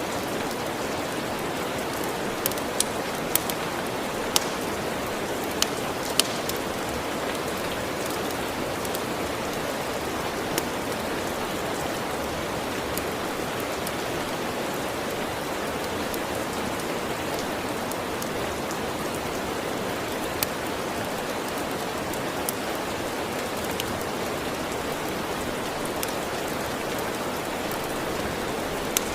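Steady rain falling, with sharp pops of a crackling wood fire now and then, several close together in the first few seconds.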